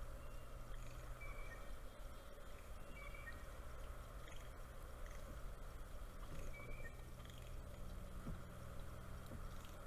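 Faint outdoor ambience: a steady low hum with a few short, faint bird chirps, spaced a couple of seconds apart.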